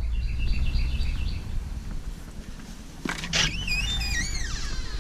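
Small songbirds at a feeder: a quick run of short high chirps near the start, then, about three seconds in, a sharp call followed by a song of wavy notes that fall in pitch. A steady low rumble lies underneath.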